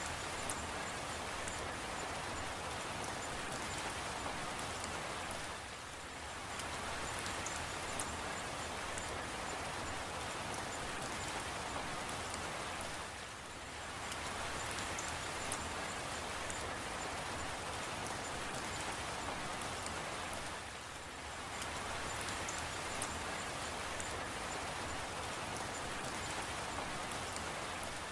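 Steady rain falling, with scattered individual drops ticking; the patter eases briefly about every seven and a half seconds and comes back.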